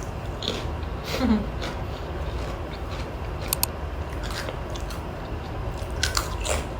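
A person biting and chewing a crunchy Thai rice cracker, with a few scattered crisp crunches.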